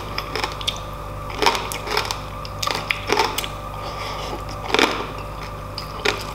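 Close-up crunching and chewing of crispy fried pork belly skin (lechon kawali) in the mouth, with sharp crunches at uneven intervals.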